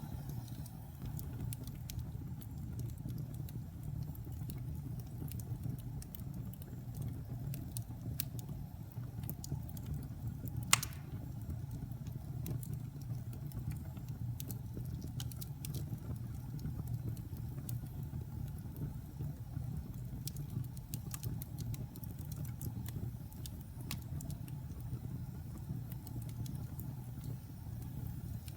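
Wood fire burning in a fireplace: a low steady roar with scattered small crackles, and one sharp, loud pop about eleven seconds in.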